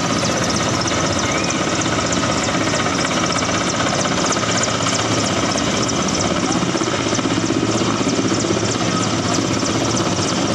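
Helicopter rotor and engine noise, a steady loud continuous chop with no let-up.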